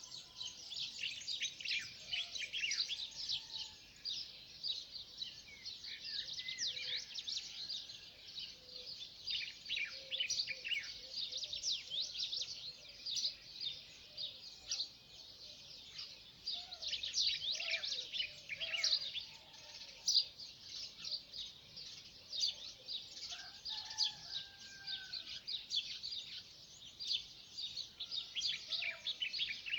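Dawn chorus of many small birds chirping and trilling at once, a dense, continuous mass of high, quick notes with a few lower whistled calls among them.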